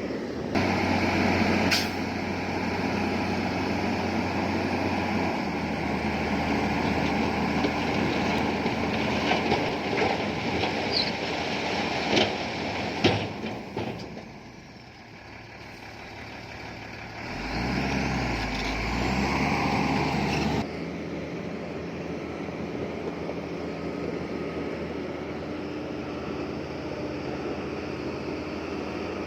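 Diesel engines of heavy earthmoving machinery running under load, with a few sharp clanks. About halfway through the sound drops away briefly, then a deep engine rumble rises before the sound changes suddenly to a steadier, lower running.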